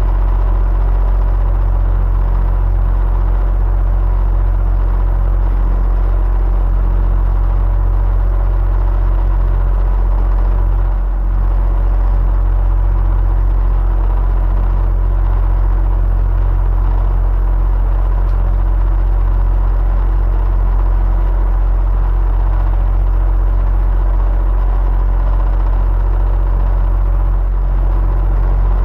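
Electric fan running steadily: a constant low hum and rush of air, with a faint steady whine from the motor.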